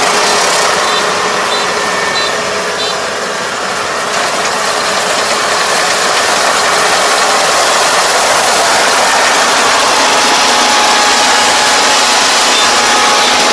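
Combine harvester running steadily under load, its engine and cutting and threshing mechanism making a dense mechanical clatter with a steady hum running through it.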